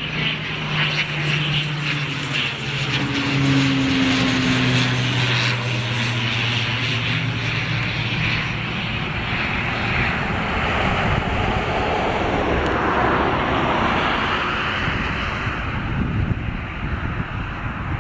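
Military aircraft flying past with its engine drone. The engine tone drops in pitch about three seconds in as the aircraft passes, leaving a broad rushing noise that fades near the end.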